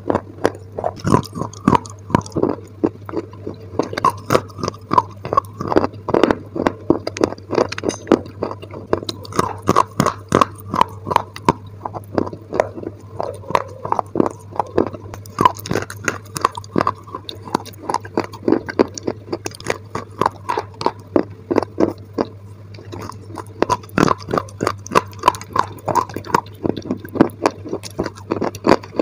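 Close-miked chewing of dry white clay sticks: a rapid, uneven run of crisp crunches, a few per second, with a steady low hum underneath.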